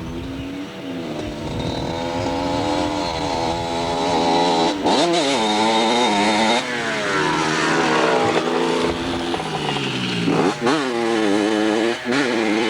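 Dirt bike engine revving as it is ridden close by, its pitch climbing and then dropping sharply several times as the rider throttles and shifts, getting louder over the first few seconds.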